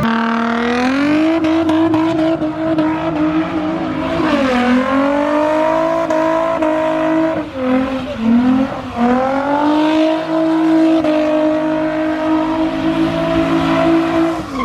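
A car engine held at high revs for the whole stretch, its pitch nearly steady, dipping briefly about four seconds in and wavering around eight seconds before climbing back and holding again.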